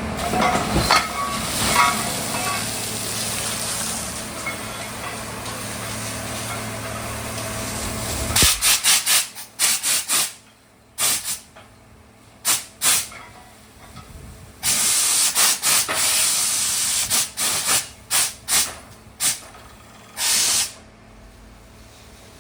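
Compressed air hissing from a mini borewell drilling rig: first a steady hiss over the rig's running engine, then about eight seconds in the engine hum drops away and the air comes in a string of loud, short hissing blasts with quieter gaps, one lasting about two seconds.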